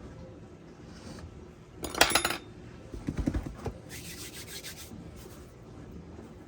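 Hands handling pie crust dough on a floured countertop: a short scraping rub, a few soft thumps, then a lighter brushing rub.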